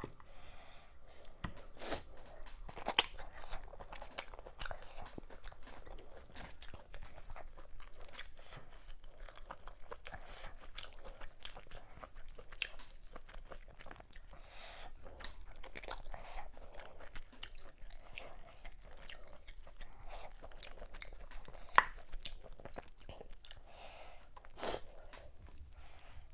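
Close-miked chewing of fufu, okra soup and assorted cow meat: a steady run of wet mouth clicks and smacks, with a few sharper crunches.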